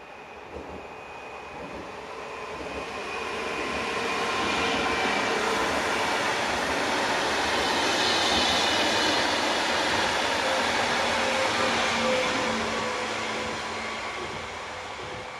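Electric passenger train passing at speed: the rail and wheel noise swells as it approaches, peaks as the cars go by, then fades as it moves away, with a faint steady whine over the noise.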